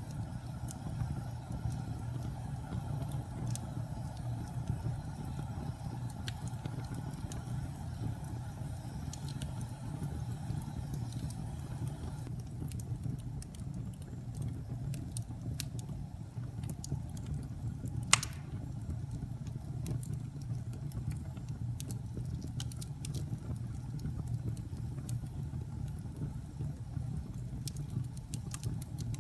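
Wood fire burning in a fireplace: a steady low roar of the flames with scattered small crackles, and one sharp, louder pop about two-thirds of the way through.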